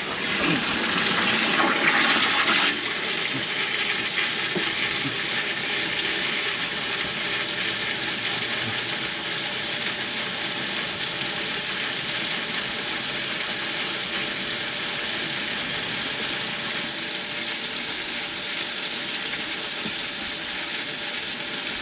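Water gushing from a hose into the boat, cut off suddenly about two and a half seconds in; after that the steady rush and splash of the bilge pumps running and discharging water out through their hull outlets.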